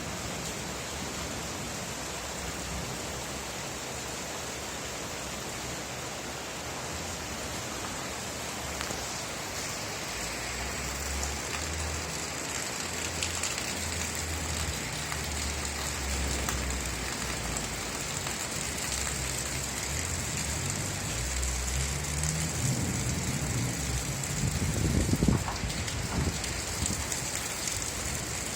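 Steady rain falling, an even hiss of drops. A low rumble builds from about ten seconds in and swells loudest a few seconds before the end.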